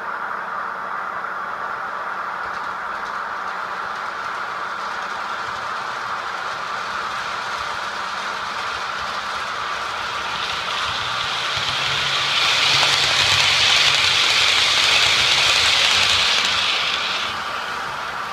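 Model railway trains running: a steady motor hum throughout, then a model train passes close by from about ten seconds in, its wheels rattling and hissing on the track, growing louder and then fading away near the end.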